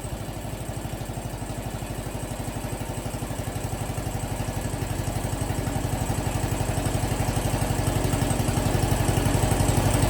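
Yamaha SR400's air-cooled single-cylinder four-stroke engine idling with an even, fast thumping beat, growing gradually louder.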